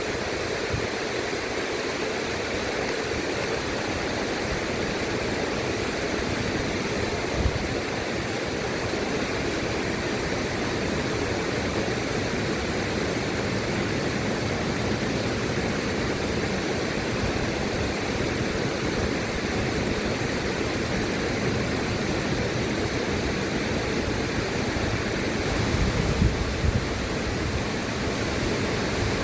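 River water rushing in a steady, even stream. About 25 seconds in, a deeper low rumble with a few uneven gusts joins the flow.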